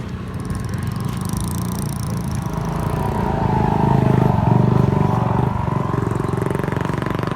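Motor vehicle engine running close by, growing louder to a peak about halfway through and then easing slightly, as a vehicle passes or works nearby.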